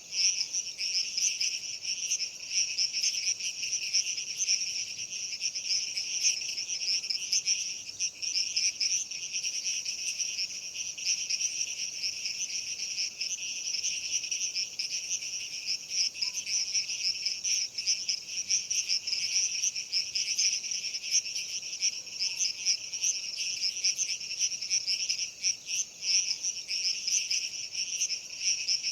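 A dense, steady insect chorus, typical of crickets: shrill, fast trilling at two high pitches that goes on without a break.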